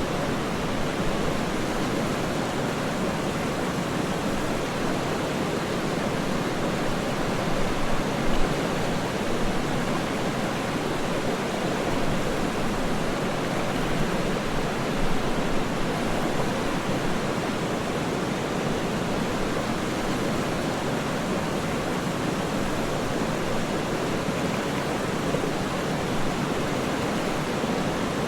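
Waterfall rushing: a steady, even roar of falling water with no breaks, its weight in the low and middle range.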